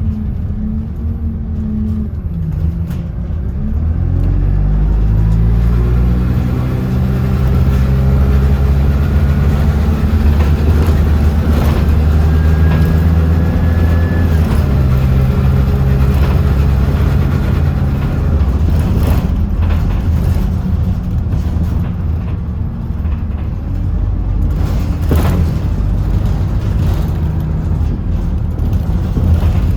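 Bus engine pulling away, its pitch rising over several seconds and then running steadily, with a thin rising whine partway through before the engine note drops back.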